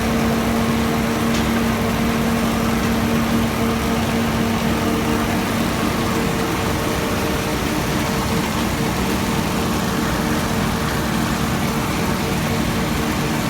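An engine running steadily at constant speed, with a continuous even hum.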